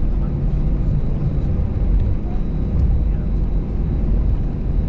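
Cabin noise inside an Airbus A320-214 taxiing: a steady low rumble from its CFM56 engines at taxi power and the airframe.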